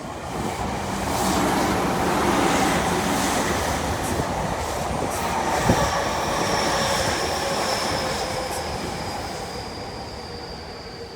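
Electric commuter train passing on the Tokyu Toyoko Line, its rumble and rail noise swelling within the first second or two and fading over the last few seconds. A thin, high wheel squeal sets in about halfway and slowly falls in pitch, with a single sharp knock near the middle.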